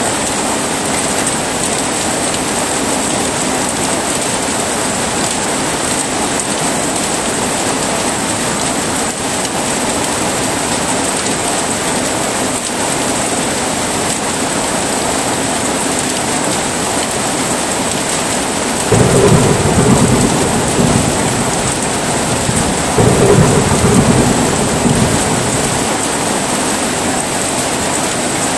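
Steady heavy rain hissing, with two low thunder rumbles breaking in suddenly about two-thirds of the way through, a few seconds apart, each lasting a couple of seconds.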